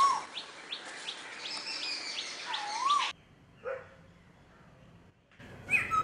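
Wild birds calling: a swooping whistled note at the start and again about two and a half seconds in, with quick high chirps between. After an abrupt change a little past three seconds, a few shorter calls follow, with a louder one near the end.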